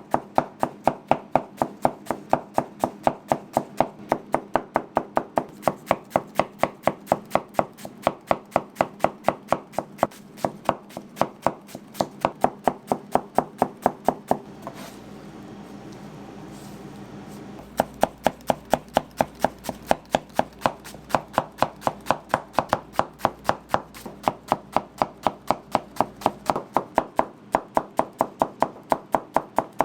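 Steady chopping or pounding on a cutting board, about three strikes a second, with a pause of about three seconds halfway through before the strikes start again.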